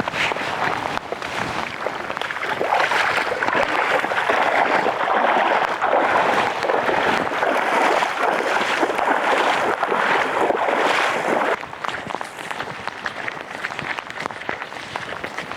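Steady rain falling, a dense crackling noise that swells through the middle and drops off suddenly about three-quarters of the way in.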